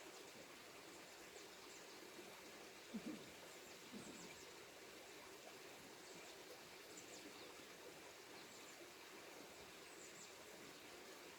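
Near silence: a faint steady outdoor background hiss, with two faint soft thumps about three and four seconds in and a few faint high chirps.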